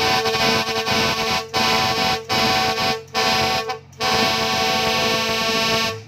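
Truck air horn blowing at a steady pitch in long blasts with brief breaks between them, then cutting off suddenly near the end.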